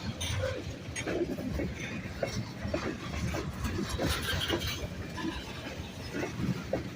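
Train rolling past: a steady low rumble with irregular clanks and knocks from the rolling cars.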